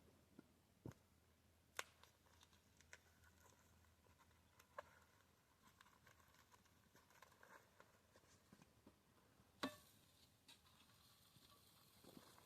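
Near silence with a few scattered faint clicks and ticks, and one sharper click near the end.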